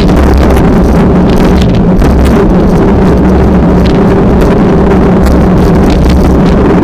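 Strong wind buffeting the microphone, loud and continuous, over a steady low drone.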